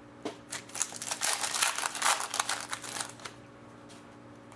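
Crinkling and crackling of a plastic trading-card pack wrapper being handled, a dense run of sharp rustles lasting about three seconds.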